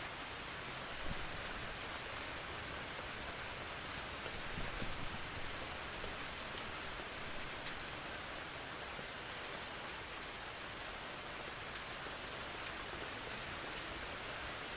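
Steady rain from a thunderstorm pattering on surfaces, with a few brief louder spatters about a second in and around five seconds in.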